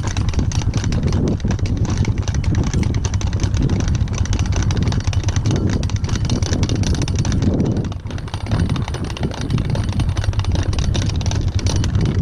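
Polaris engine idling steadily, over a rapid clicking from an electric fence reel being wound by hand, with the level dipping briefly about eight seconds in.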